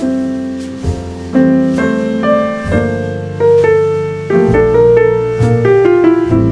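Jazz piano trio playing live: piano chords and melody struck about once a second over low bass notes, with light cymbal taps from the drums.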